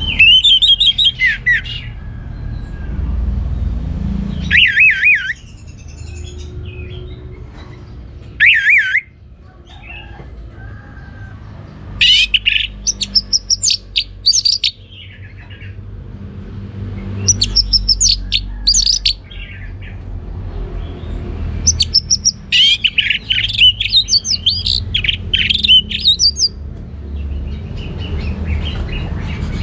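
Orange-headed thrush singing: bursts of rapid, varied whistled phrases, about six of them, separated by pauses of a few seconds, over a steady low rumble.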